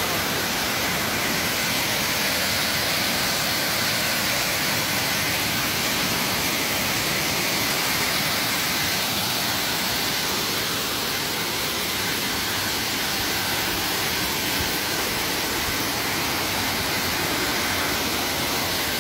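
Waterfall running in full flow after heavy rains: a steady, unbroken rush of falling water.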